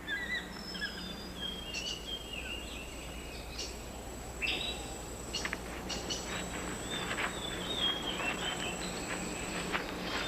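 Rainforest canopy ambience: many birds chirping and whistling in short calls, some sliding in pitch, over a steady high insect drone.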